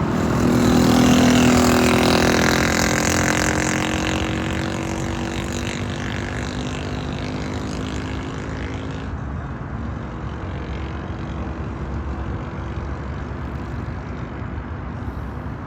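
Boeing 747 freighter's four jet engines at takeoff power passing and climbing away. The sound is loudest a second or two in. Its engine tones fall slowly in pitch, and the high hiss fades by about nine seconds, leaving a low rumble that slowly dies away.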